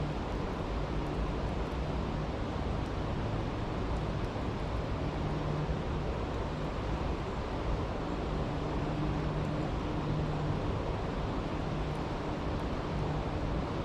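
Steady rushing of a flowing stream, with a low hum that comes and goes and a few faint crackles from a campfire.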